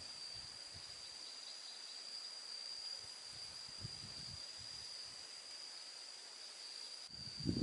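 Insects droning outdoors: one steady, unbroken high-pitched tone over a light hiss, with a few faint low thuds around the middle.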